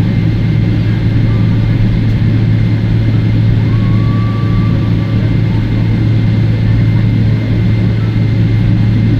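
Cabin noise of a Boeing 777-300ER taxiing: the GE90 engines at taxi power and the air conditioning make a steady low drone with a faint high whine.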